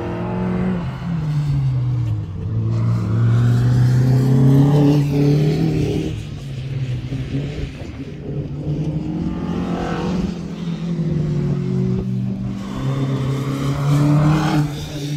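Rally car engine under hard driving. Its note climbs and drops several times with the throttle and gear changes, falling about a second in and near the end.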